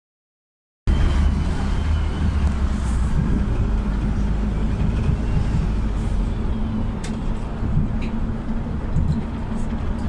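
PAZ 320414-04 Vector bus with a YaMZ-53423 engine running on compressed natural gas, giving a steady low rumble that cuts in suddenly about a second in, with a few light clicks or rattles later on.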